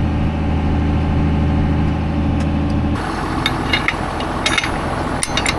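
An engine running steadily at idle. About three seconds in the sound changes abruptly to a noisier, rougher background with scattered clicks and short high blips.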